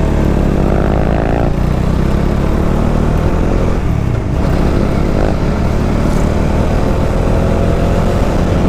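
Motorcycle engine running under way with rushing wind. It climbs in pitch as it accelerates over the first second and a half, then settles to a steady cruise, rising slowly again toward the end.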